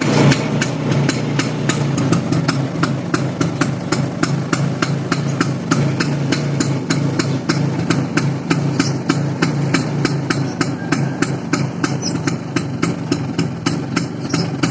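Vespa PX two-stroke single-cylinder engine idling through an Apocalipto aftermarket exhaust. Under a steady low hum, it gives a sharp, regular metallic clinking about three to four times a second: the jingling 'kemrincing' note this exhaust is fitted to produce.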